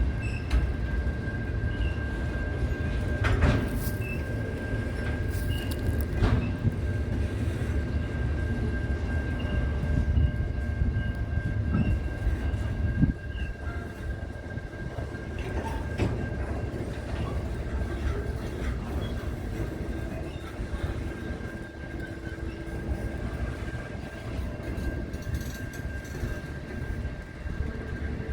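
A train running on the track: a continuous low rumble with a steady high tone over it and a few sharp clicks from the wheels and track.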